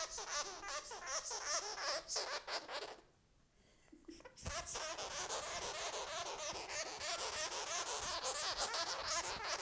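Sugar glider chattering, a fast wavering noise, while it is handled during an exam. It stops for about a second and a half about three seconds in, then starts again.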